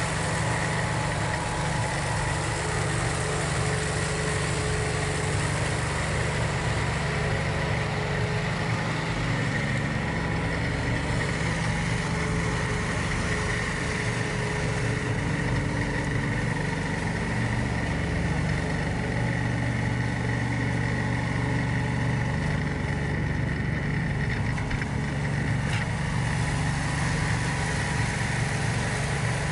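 John Deere 4110 compact tractor's diesel engine running steadily under way, with a steady high whine alongside.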